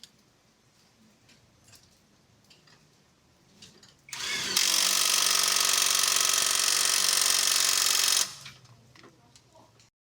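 A power tool spins up with a rising whine about four seconds in, runs loud and steady for about four seconds, then stops. Faint ticking and clinking before and after.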